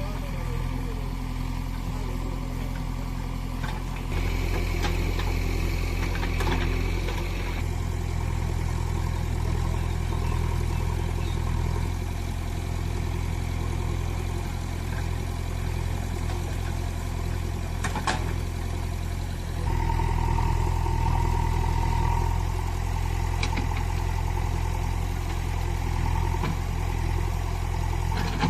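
JCB backhoe loader's diesel engine running steadily, working harder about four seconds in and again about twenty seconds in, each time with a brief high whine. A single sharp knock about eighteen seconds in.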